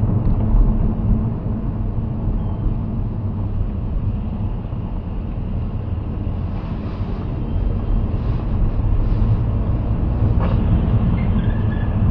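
A car driving, its engine and road noise making a steady low rumble as picked up by a dashcam.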